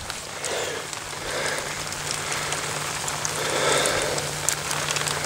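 Steady rain falling, with many scattered sharp taps of single drops.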